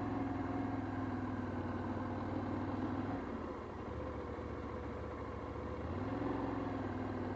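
Motorcycle engine running at low speed, dropping to a lower note about three seconds in and picking back up about six seconds in.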